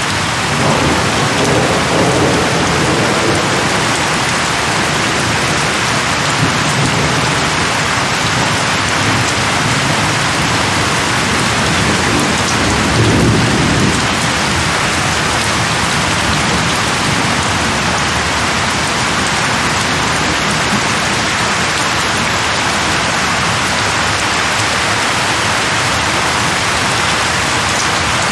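Heavy, steady rain, with low thunder rumbles a second or two in and a louder one about halfway through.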